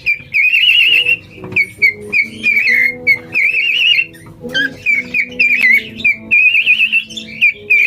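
Cockatiel whistling its song: repeated warbling phrases with a fast quaver, broken by short chirps, over fainter background music.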